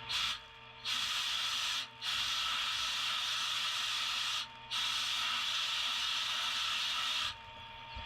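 Sandblaster blasting abrasive at the pitted steel head of a splitting maul: a loud hiss in four long bursts separated by short breaks, over a steady low hum.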